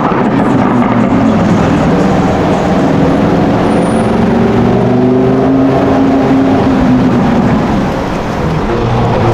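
Car engine running loud, its pitch rising and falling slowly as the revs change, dipping briefly near the end before picking up again.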